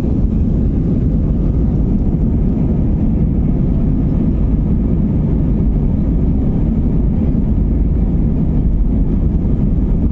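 Passenger jet heard from inside the cabin during takeoff: a loud, steady low roar of the engines and rumble of the airframe.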